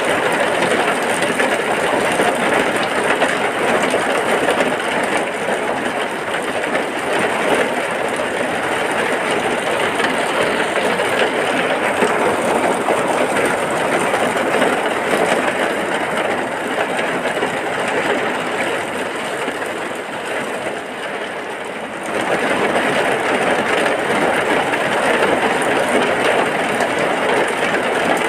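Heavy rain falling steadily, a dense even hiss. It eases slightly, then jumps back up sharply about three-quarters of the way through.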